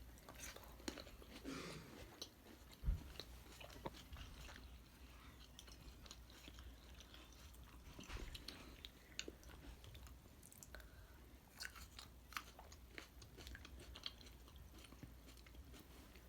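Grapes being chewed and bitten, faint, with scattered small clicks from the bites.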